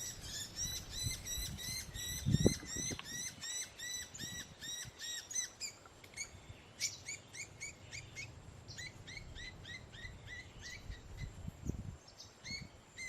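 Small birds chirping: short, high, hooked chirps repeated about four times a second, thinning out past the middle. A dull low thump comes about two and a half seconds in.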